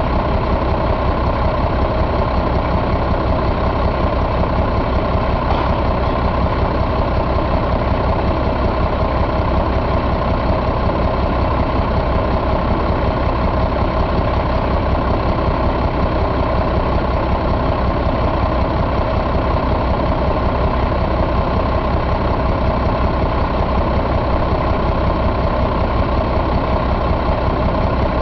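Caterpillar C12 inline-six diesel engine idling steadily.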